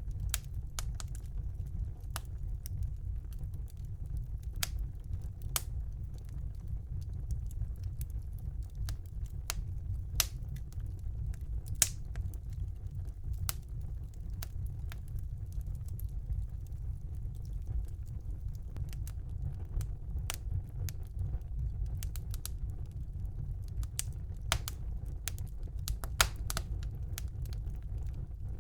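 Wood fire burning in a fireplace: a steady low rumble of the flames with sharp, irregular crackles and pops, a few of them louder, about twelve and twenty-six seconds in.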